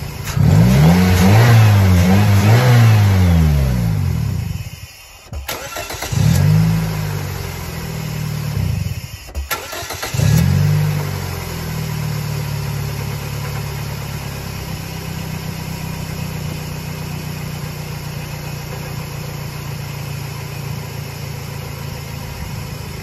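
2004 Scion xB's 1.5-litre four-cylinder engine, fresh spark plugs in, revved up and down twice in the first few seconds. It then drops away almost to nothing twice and catches again each time with a click and a short rev, before settling into a steady idle.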